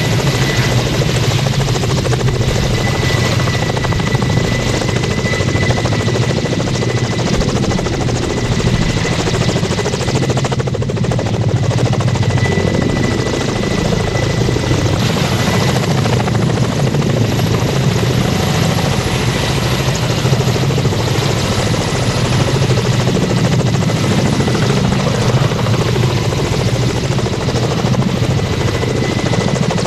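Helicopter running on the ground after start-up for a test run: a steady, loud engine-and-rotor noise with a thin high whine over it.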